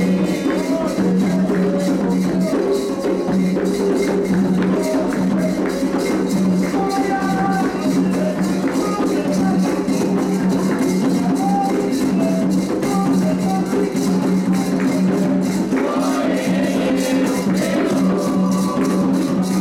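Candomblé ritual music for Oxum: atabaque hand drums beating a fast, steady rhythm with shaken percussion, and voices singing a chant over it.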